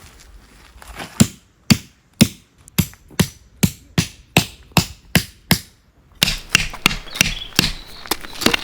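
Hammering: about a dozen sharp blows at a steady two or so a second, which stop just before six seconds in. A rustling, crackling noise follows.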